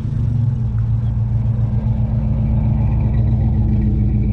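A car engine running at low revs with a deep, steady rumble.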